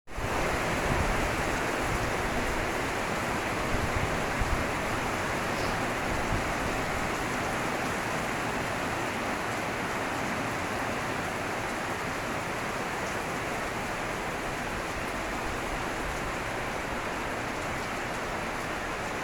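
Steady rain falling, an even wash of noise with no let-up, with a few brief low bumps about one and four seconds in.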